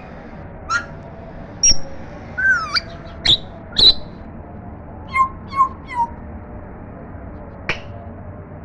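African grey parrot making a string of short whistles, clicks and squawks, with a rising-and-falling whistle a couple of seconds in and three quick calls around the fifth and sixth seconds.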